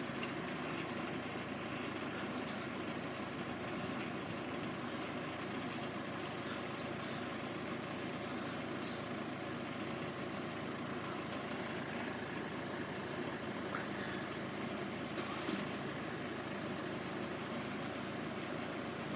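Steady idling of diesel engines, with a short hiss about fifteen seconds in.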